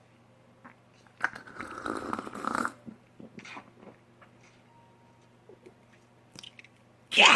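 Mouth sounds of a person eating grilled pork belly: soft clicks and smacks of chewing, a louder noisy stretch of about a second and a half starting about a second in, and a loud burst just before the end.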